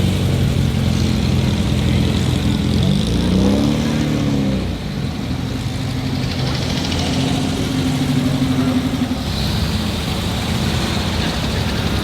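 Old cars' engines idling and running slowly, one revving up and dropping back about three seconds in.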